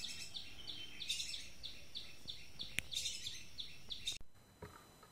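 Birds calling in forest, with a high chirping note repeated about three times a second over a soft background. A single sharp click comes a little before three seconds. The sound cuts off abruptly just past four seconds, leaving near-quiet with a few faint sounds.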